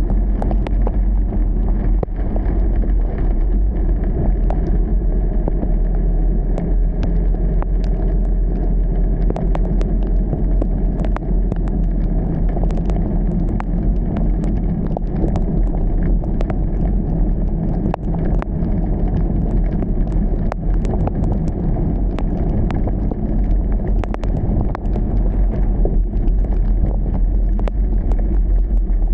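A car driving through heavy rain: a steady low rumble of engine and tyres on the wet road, with frequent irregular ticks of rain striking it.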